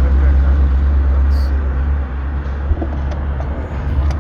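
Steady low rumble of riding noise carried into a mounted camera's microphone, with a few faint ticks near the end. It is a vibration noise that the rider puts down to rattling armrests or the DJI camera mount.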